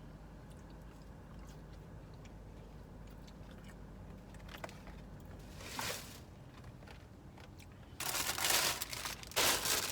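Takeout packaging being handled and shifted around, with a short rustle about six seconds in and loud crinkling near the end, over a faint low steady hum.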